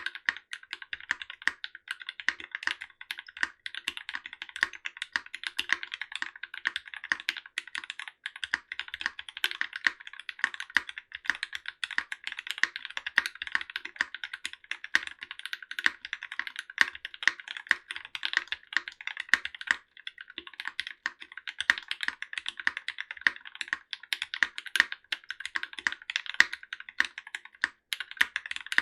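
Continuous fast typing on a Linworks Whale75 custom mechanical keyboard with Gateron Merlot tactile switches and GMK Bingsu keycaps, a clacky, foamless board. The keystrokes come in a dense stream with a couple of short pauses.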